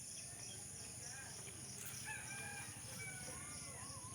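A rooster crowing faintly, a drawn-out call about two seconds in, over steady high-pitched insect buzzing with rhythmic cricket chirps.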